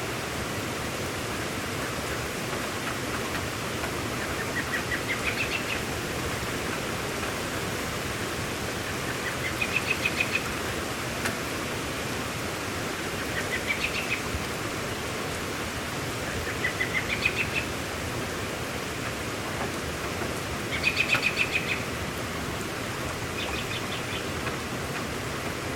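Steady rain hiss, with a small bird repeating a short trill of rapid notes, mostly rising in pitch, six times over the rain.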